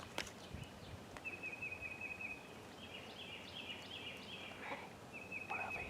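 A small songbird singing a high, rapid trill of evenly spaced notes, repeated several times with short gaps, over faint woodland background.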